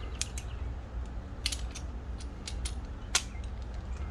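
Scattered light metallic clicks and taps from hand tools being handled: a new spark plug seated in a spark plug socket and extension. A low steady rumble runs underneath.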